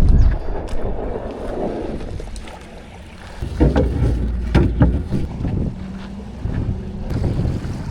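Water splashing and lapping against a kayak's hull on choppy lake water, with wind rumbling on the microphone; a few louder splashes come about four seconds in.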